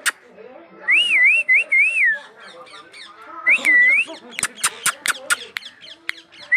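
Clear whistled notes that waver up and down in pitch, three in a row and then one more, followed by a quick run of sharp clicks.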